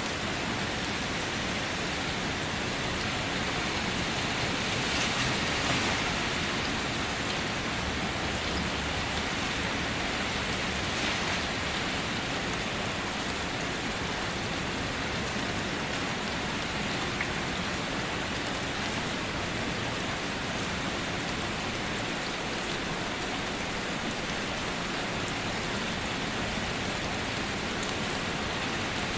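Steady rain falling, an even continuous hiss, swelling slightly about five seconds in.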